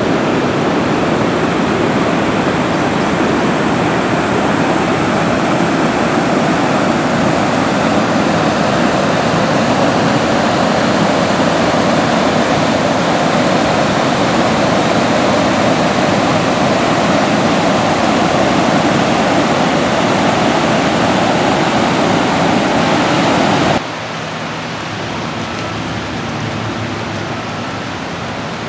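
Floodwater rushing, a loud steady roar of fast-moving water. About 24 seconds in it cuts abruptly to a quieter, steady water sound.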